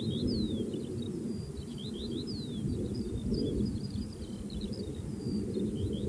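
Small birds singing, with many short chirps and quick downward-sliding notes, over a loud, uneven low rumble.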